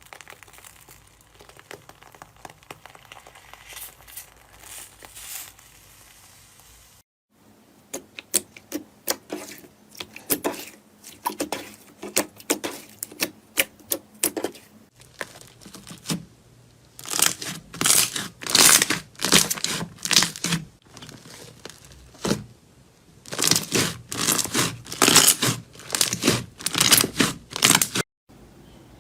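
Slime being squeezed, stretched and poked, giving crackling and popping clicks: faint crackle at first, then a run of sharp separate pops, then louder crackling that comes in regular squeezes, with abrupt changes between clips.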